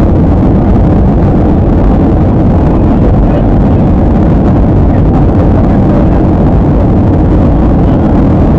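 Steady airliner cabin noise in flight: a constant, deep rush of engines and airflow heard from inside the cabin.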